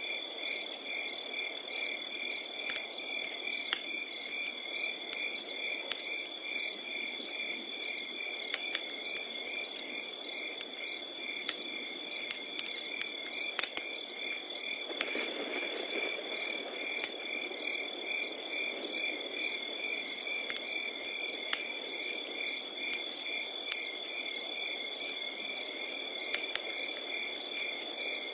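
Wood fire crackling with scattered sharp pops and a soft hiss, which swells briefly about halfway through. Over it, night insects sing: one steady high trill and rhythmic chirps about three a second.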